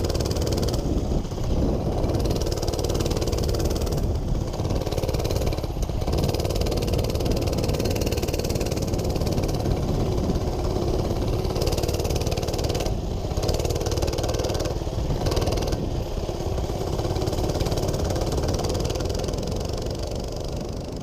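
Coleman BR100 mini bike's small single-cylinder four-stroke engine running under way, its note rising and falling with the throttle, with rushing wind noise.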